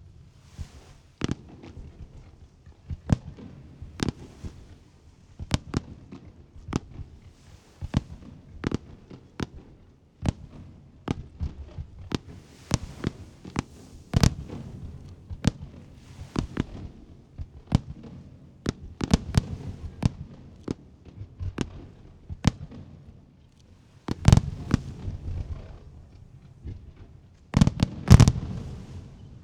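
Aerial fireworks shells bursting in quick, irregular succession, often more than one boom a second over a low rumble, with the loudest bursts near the end.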